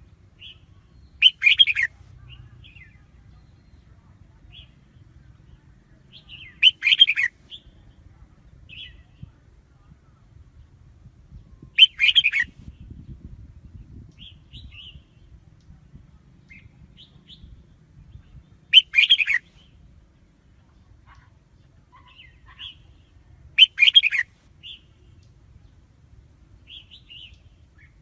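Red-whiskered bulbul singing short, loud phrases, five times at intervals of about five to six seconds, with faint short chirps in between.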